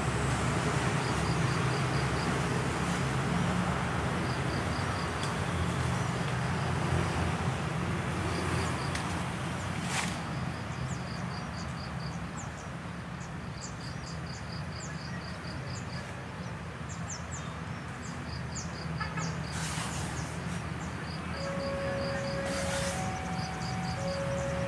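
Steady low hum of trains standing at the station, with short groups of high chirping over it and, near the end, two alternating steady tones.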